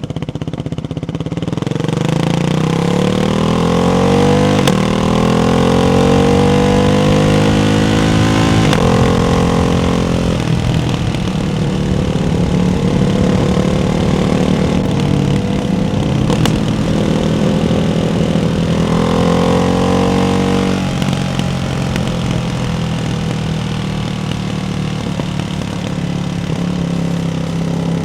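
Ducati Hypermotard 698's single-cylinder engine through a baffled Termignoni exhaust while riding. It pulls up through the revs for several seconds and drops off sharply, holds at fairly steady revs, then rises briefly a second time and drops sharply again before settling into a steady cruise.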